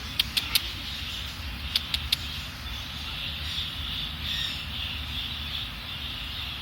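Two quick runs of three sharp clicks, about a second and a half apart, over a steady high hiss and low background rumble.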